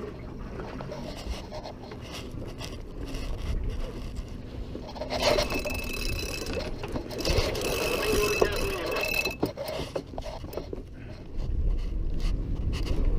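Sailboat under sail just after a jibe: wind on the microphone with rustling and scraping from the sail, sheets and deck hardware. A thin high squeal runs for about two seconds past the middle.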